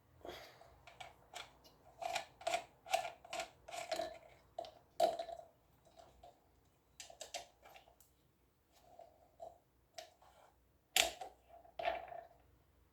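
Parts of an electric fan clicking and knocking as they are handled and fitted together: an irregular run of clicks in clusters, the loudest a sharp knock near the end.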